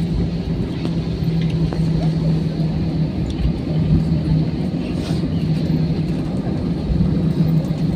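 Cabin noise inside an Airbus A320 taxiing after landing: a steady low rumble with an even hum, from the engines at taxi power and the air system.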